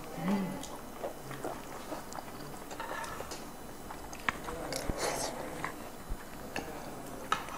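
People chewing and biting food close to the microphone, with small wet mouth clicks and a denser crunchy stretch about five seconds in.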